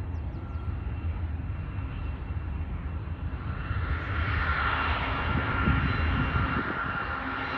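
Rear helper diesel locomotive at the back of a freight train, working under power to push it over the summit: a steady low engine rumble, with a high engine whine growing louder from about halfway through.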